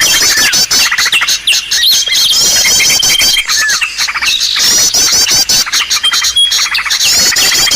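A bird-luring recording for small songbirds: several birds' calls are layered densely, with rapid high chirping trills and a long, level whistled note that recurs every few seconds.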